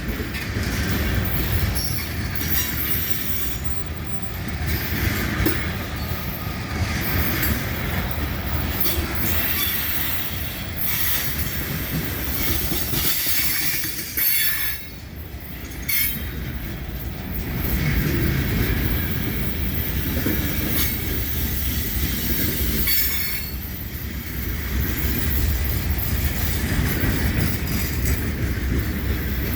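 CSX freight train's cars rolling past on the rails: a steady low rumble with high metallic wheel noise and occasional clanks, dipping briefly about halfway through.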